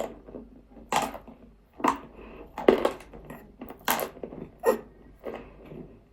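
Nzu, Nigerian edible baked clay, being bitten and crunched in the mouth: a string of sharp crunches, six or seven of them, at irregular intervals of about a second.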